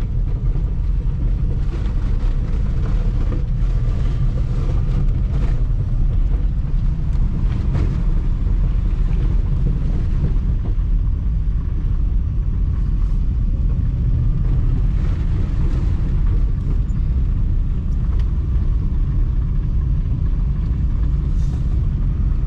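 Subaru Brat with its freshly swapped engine being driven, heard from inside the cab: a steady, loud low engine and road rumble with short knocks and rattles every few seconds.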